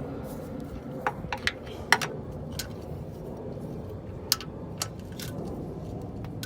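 Scattered light metallic clicks and clinks of tools and parts being handled during an oil change, the sharpest about two seconds in and again about four seconds in, over a steady low background rumble.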